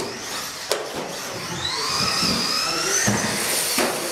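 Radio-control race trucks' motors whining as they race. One whine rises in pitch through the middle as a truck accelerates, with a sharp click just before a second in and a short burst of noise near the end.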